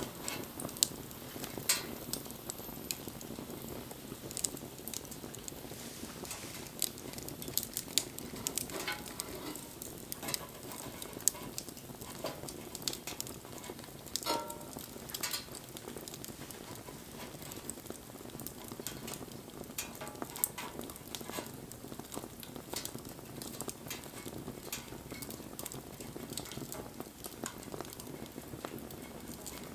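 Wood fire burning with a steady hiss and frequent sharp crackles and pops, busiest in the first half.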